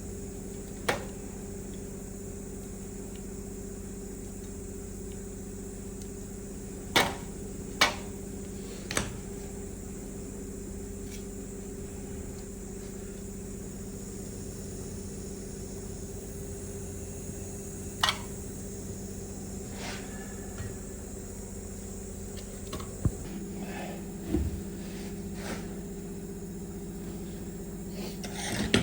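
Scattered sharp clicks and knocks of parts and tools being handled during a steering-column overhaul, about eight in all, over a steady hum.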